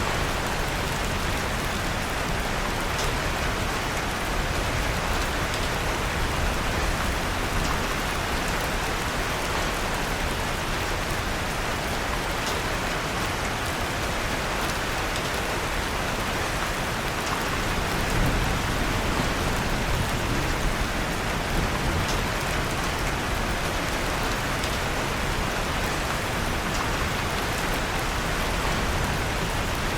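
Steady rain falling on a surface, a constant even hiss, with faint sharp crackles of a wood fire in a fireplace scattered through it.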